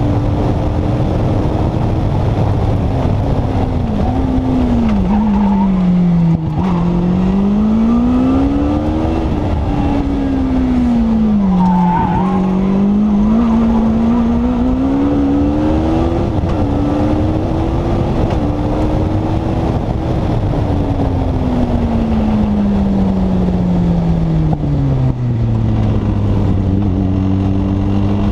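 Turbocharged Honda CBR1100 inline-four motorcycle engine in a Sylva Striker kit car, driven hard up a hillclimb: the engine note climbs and drops repeatedly as the driver accelerates, brakes and changes gear. It falls sharply about six seconds in and again about twelve seconds in, then falls steadily for several seconds near the end before settling lower. A constant rush of wind and road noise runs underneath in the open cockpit.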